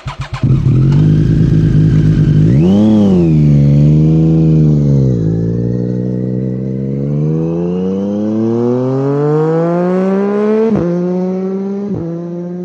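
Triumph Street Triple 765 RS three-cylinder engine through a Scorpion Serket Taper carbon silencer with no dB killer. It blips up and down twice, then pulls with a long steady rise in pitch. Two sharp brief dips in the sound come near the end, and it fades slightly.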